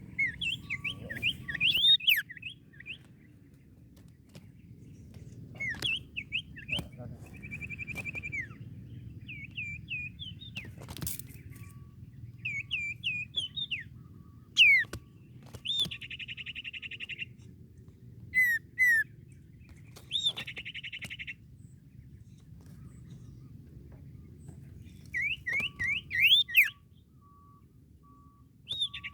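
A songbird singing vigorously in repeated bursts: phrases of quick rising chirps alternating with buzzy, rattling trills about a second long, the loudest notes near the middle and end.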